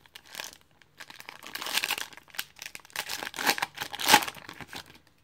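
Crinkling and tearing of a trading-card pack's foil wrapper as it is ripped open, in irregular bursts of rustling.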